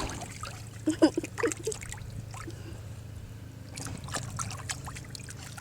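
Bath water sloshing and trickling as a wet dog moves about in it, with a few short splashes about a second in.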